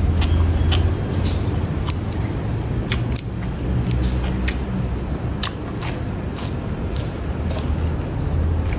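Close-up chewing and crunching of raw leafy greens, with irregular crisp snaps as stems are torn and bitten, over a steady low rumble.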